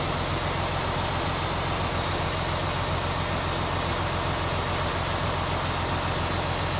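Semi-truck's diesel engine idling steadily, heard from inside the cab, as an even low hum with a fine regular pulse under a steady hiss.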